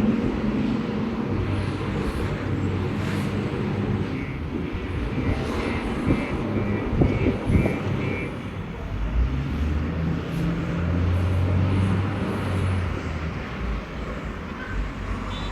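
Truck engines running with a steady low rumble. A few sharp knocks come around seven seconds in, and a faint broken high tone is heard from about four to eight seconds in.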